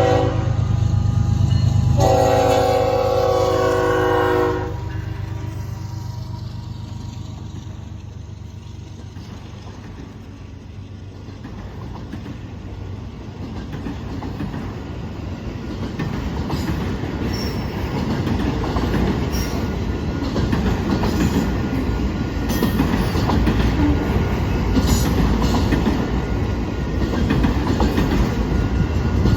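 Norfolk Southern train at a grade crossing: the locomotive horn sounds over a low diesel rumble and cuts off about four seconds in. The train then rolls past, the clickety-clack of its wheels on the rails building louder from about twelve seconds in and staying loud to the end.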